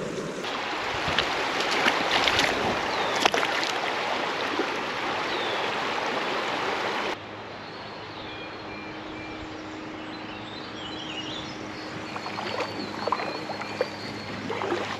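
Creek water rushing steadily, loud for about the first seven seconds. The sound then drops suddenly to a quieter flow with a few faint high chirps and a low steady hum.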